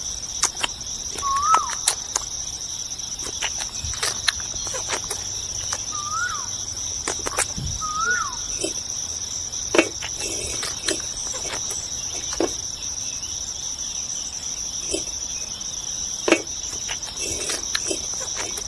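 Steady high-pitched insect chirring, with a few short rising-then-falling bird whistles in the first half and scattered light clicks.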